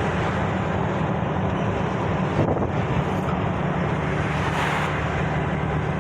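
Truck on the move: steady engine drone and road noise with a strong low rumble.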